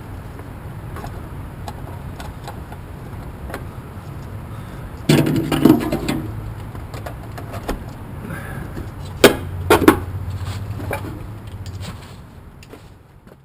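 A few sharp knocks and clatters of handling, in two clusters about five and nine seconds in, over a steady low hum.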